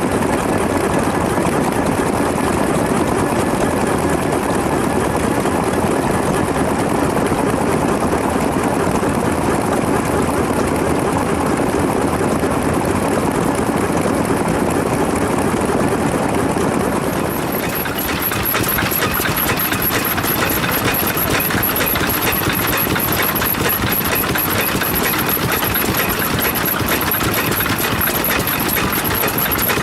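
Vintage Japanese stationary engines running steadily. About two-thirds of the way through the sound changes abruptly to a brighter, harsher engine note.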